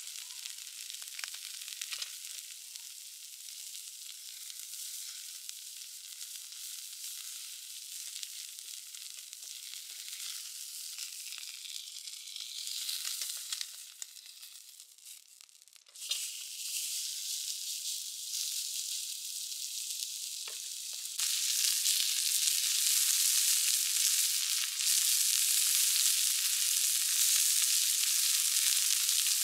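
Steak frying in hot oil in a pan, a steady sizzle with scattered pops and crackles. It dies down briefly about halfway through and comes back louder for the last third.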